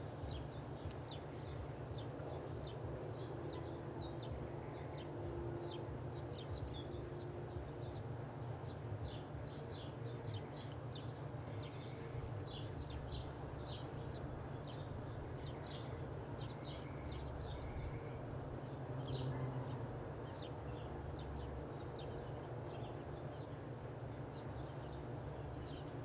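Birds chirping in short, irregular calls over a steady low rumble.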